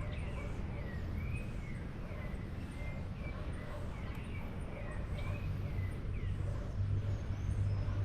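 Birds chirping repeatedly with short, curving high calls, over a steady low rumble that grows louder near the end.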